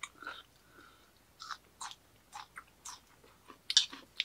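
A person chewing a crunchy mouthful of fresh minari (water dropwort) salad, with short crisp crunches coming irregularly about every half second.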